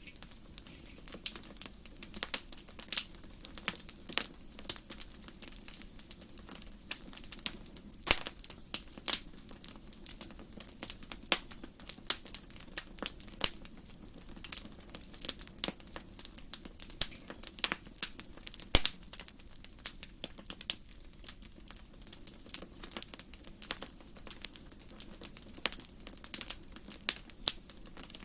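Wood fire in a fireplace crackling, with irregular sharp pops, several a second, over a low steady rush of the flames; one pop about two-thirds of the way through stands out as the loudest.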